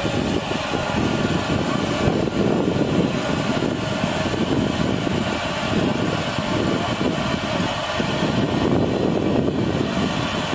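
Steam locomotive in steam: a loud, steady hiss with an uneven pulsing underneath.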